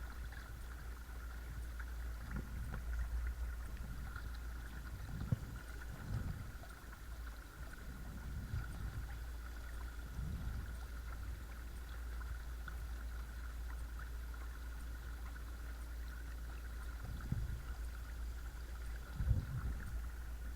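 Watersnake T24 12-volt electric trolling motor running steadily at low speed while driving a kayak, heard as a constant thin whine over a low rumble. A few soft low thumps come and go.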